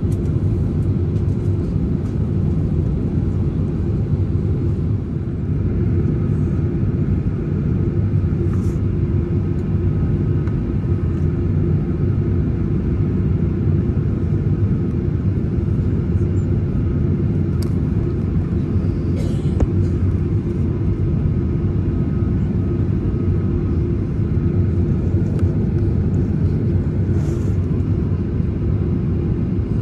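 Jet airliner cabin noise in flight: a steady low rumble of engines and airflow with a constant hum running through it.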